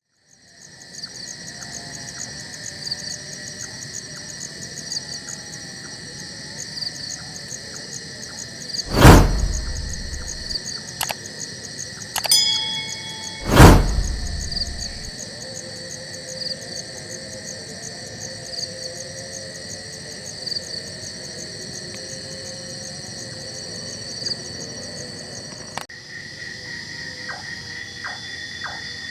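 Night insect chorus of crickets and other insects: several steady, high chirring trills layered together with rhythmic pulsing. Two loud thumps cut through it, about nine seconds in and again about five seconds later.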